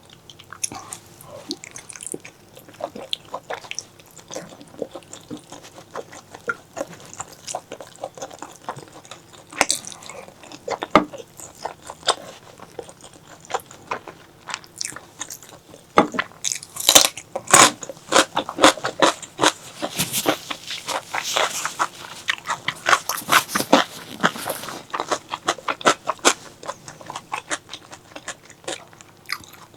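Close-miked eating of spicy pork leg curry: chewing and biting, a quick run of short wet clicks that gets busier and louder past the middle.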